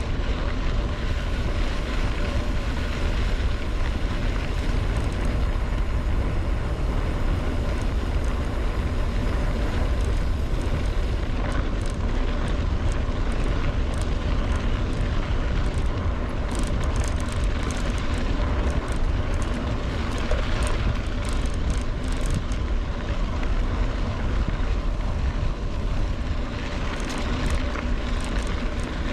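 Heavy wind rumble buffeting the microphone of a camera on a moving mountain bike, with light clicks and rattles from the bike over the road in the middle and near the end.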